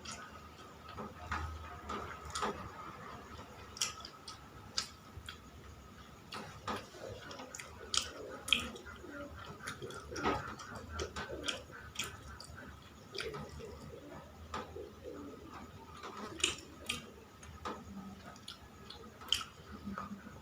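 Someone eating a meal: irregular small clicks and taps with bits of chewing, over a faint steady tone.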